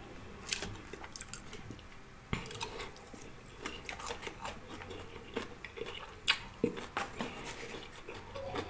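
A person chewing food close to the microphone: soft wet smacks and clicks of the mouth at irregular intervals.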